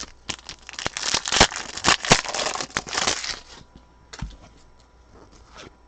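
A foil wrapper on a pack of football trading cards being crinkled and torn open, with dense crackling for about three seconds, then a few soft taps and rustles as the cards are handled.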